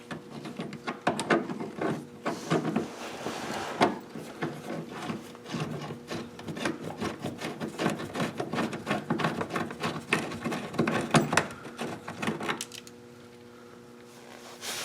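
Dense, irregular metallic clicking and rattling of hand tools working the rusty running-board bolts under the truck, stopping abruptly near the end.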